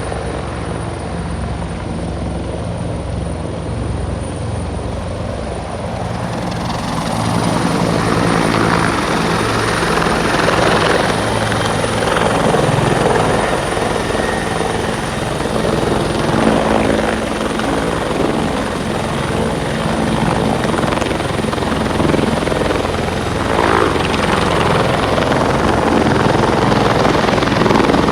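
Turbine helicopter running: a steady high turbine whine over the low, even beat of the rotor. The sound grows louder and fuller about seven seconds in and stays there.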